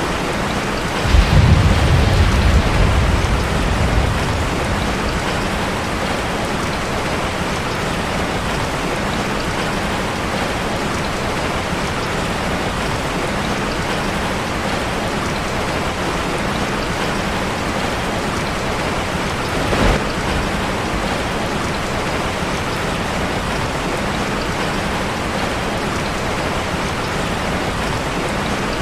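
Steady rain drumming on a metal roof. A loud low rumble of thunder starts about a second in and lasts about three seconds, and a shorter, fainter rumble comes about two-thirds of the way through.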